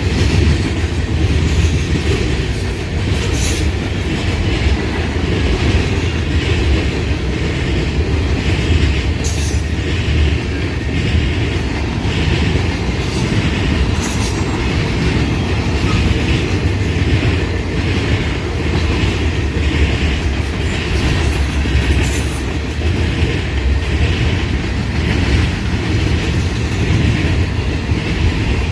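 Freight train cars rolling past, a steady loud rumble of wheels on rail with a few brief, sharp high-pitched wheel noises.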